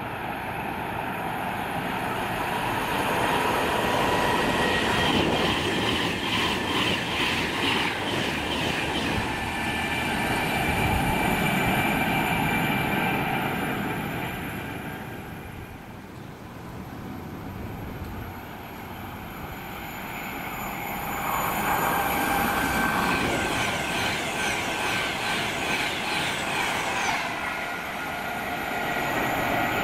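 Class 390 Pendolino electric trains passing at speed: a rushing rolling noise with rapid rhythmic clicking of wheels over the rails. It swells twice, easing off about halfway before building again.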